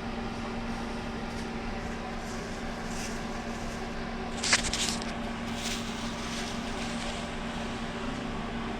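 Steady mechanical hum with a constant low tone. There are a few faint ticks, and a short sharp crackling clatter about four and a half seconds in.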